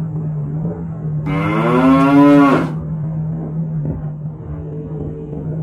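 A cow mooing once, a long call of about a second and a half that rises and then drops away at the end, over a motorcycle engine running steadily.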